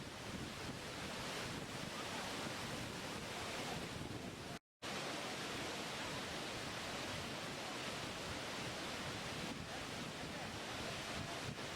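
Steady rushing noise of falling or breaking water. It cuts out completely for a split second a little before halfway through.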